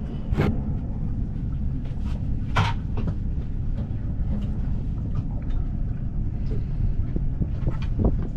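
Steady low rumble of a boat at sea, with several short knocks and clicks of handled gear, the loudest about two and a half seconds in.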